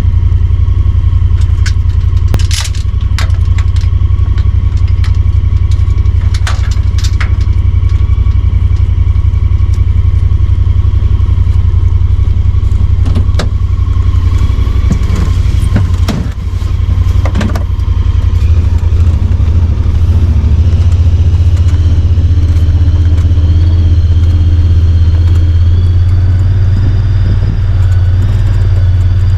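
A vehicle's engine running steadily while driving, with a loud low hum, a faint whine above it, and scattered knocks and rattles. The engine note shifts a little past the middle.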